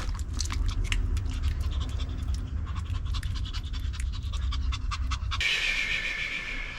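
A dog panting rapidly and steadily over a low rumble, in midsummer heat. About five seconds in, the panting and rumble cut off and a steady high buzzing takes over.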